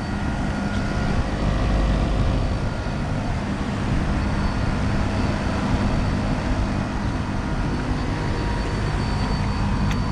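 Ameristar central air conditioner's outdoor condensing unit running: a steady hum of the condenser fan and compressor, with a faint high whine joining about four seconds in.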